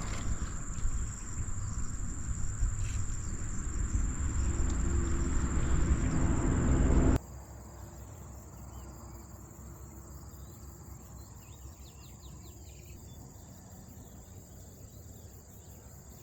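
Steady high-pitched insect drone. Over the first seven seconds a low rumble grows louder and then cuts off abruptly, leaving the insects with a few faint chirps.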